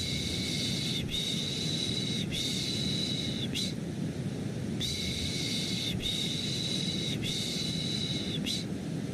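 A person's shushing 'shhh' sound, repeated as long shushes of about a second each: three in a row, a pause of about a second, then three more. The shushing plays over a steady white-noise bed that is strongest in the low range, a baby-soothing loop.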